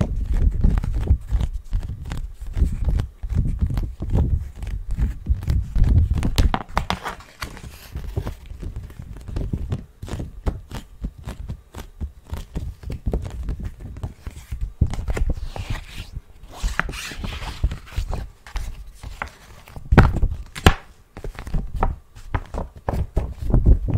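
ASMR tapping on objects held close to the microphone: a dense, irregular run of taps and knocks with deep thuds, a few sharper strikes about twenty seconds in.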